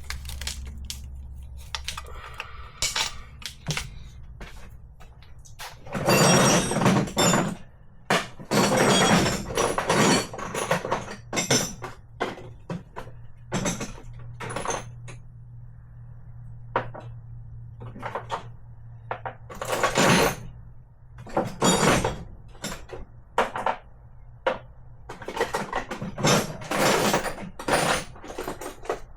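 Metal hand tools and sockets clattering and clinking as they are handled and knocked together, in irregular bursts of sharp knocks and rattles.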